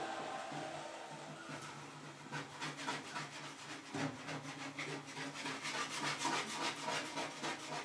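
Rapid back-and-forth rubbing strokes, about three or four a second, from about two seconds in, as leftover sound-deadening adhesive is worked off the bodywork by hand. A steady low hum runs underneath.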